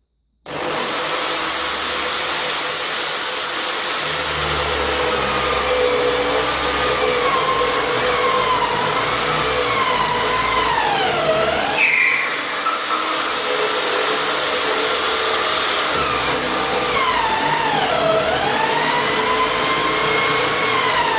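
Electric drill in a drilling stand, starting suddenly and boring through timber into a galvanized steel plate. Its motor pitch sags twice under load and recovers, with a brief squeal from the bit in between. The drill is labouring because it is not set to the correct speed.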